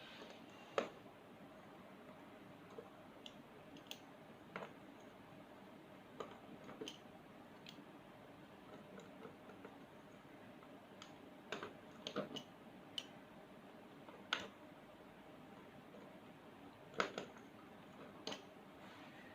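Scattered faint clicks and light knocks, about a dozen at irregular intervals, of a cutter being pressed through stacked layers of dough and against the board as the dough is cut into strips.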